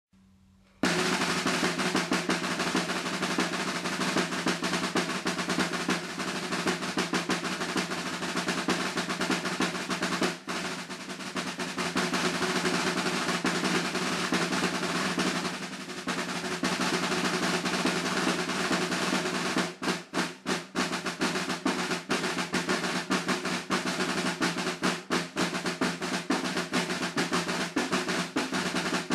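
Snare drum played solo: after about a second of quiet, dense buzzing rolls and rapid rudimental sticking run almost without a break. A few brief dips and a stretch of more separated, accented strokes come later on.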